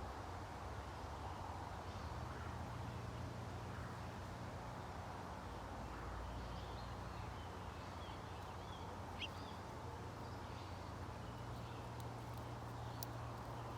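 Faint scattered songbird chirps at a bird feeder, with one sharper short call about two-thirds of the way through, over a steady low outdoor hum. A few faint clicks near the end.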